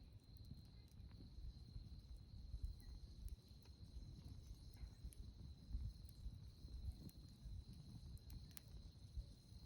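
Faint campfire crackling as scattered small pops, over a steady high trill of insects and a low rumble.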